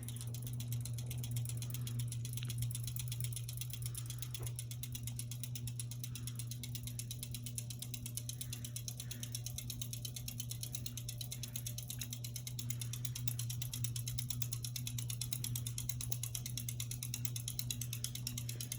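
Hampton Bay Landmark III Plus ceiling fan running on high, with a steady motor hum and a fast, even ticking. It runs slower than it should on high, which the owner puts down to a bad capacitor.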